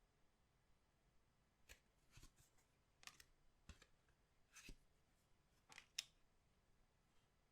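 Faint handling of trading cards and their packaging: a scattered run of short rustles and clicks, the sharpest about six seconds in.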